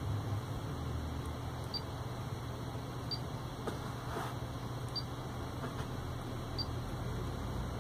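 Steady low hum, with light taps of a stylus on a Pioneer AVH-P6380BT car stereo's touchscreen and short high beeps from the unit confirming the touches, about four in all.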